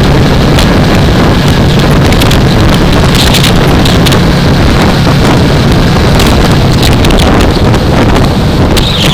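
Heavy wind rushing over a helmet-mounted microphone at riding speed, over the steady hum of a 2015 Yamaha R3's parallel-twin engine.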